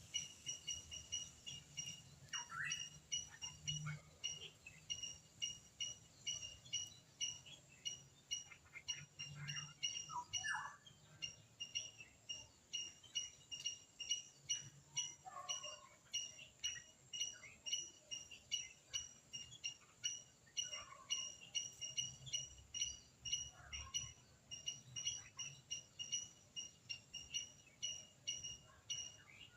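A short, high-pitched chirp repeated steadily about two to three times a second, with a few fainter chirping calls scattered behind it.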